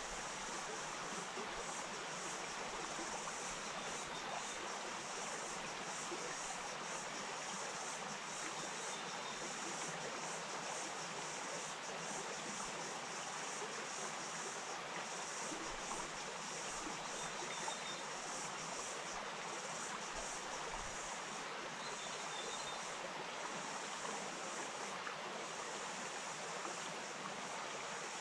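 Wainuitewhara stream flowing steadily: a constant, even rush of running water.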